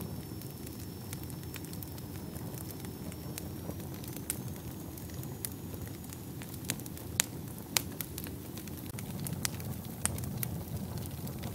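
Wood fire burning in a fireplace: a steady low rush of flames with scattered sharp crackles and pops, two louder pops a little past the middle.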